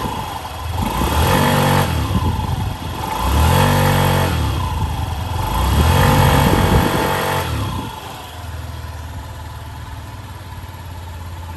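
Honda Gyro X scooter's four-stroke engine revved up and back down three times, then settling to a steady idle about eight seconds in.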